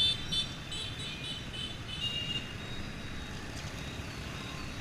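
Yamaha XTZ 125's single-cylinder four-stroke engine running steadily under way. A high chirping comes and goes over it in the first second or so.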